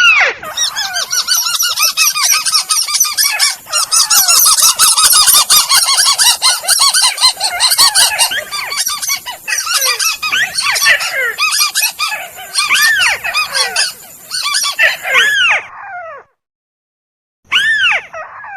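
Bird-lure recording of tikusan (crake) calls: many overlapping arched, honking notes in a dense chorus that thins out after about 15 seconds. Near the end, after a short silence, single calls come one at a time.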